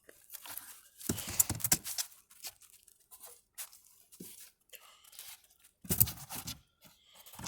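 Handling noise from working an open beehive: irregular crackling and scraping in two main bursts, about a second in and again near six seconds, with fainter rustles between.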